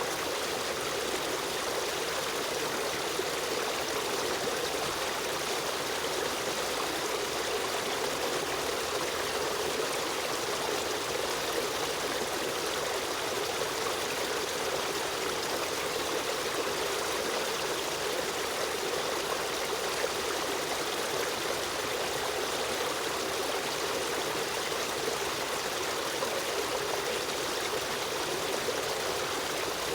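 Stream water running and trickling over stones in a steady, unbroken rush.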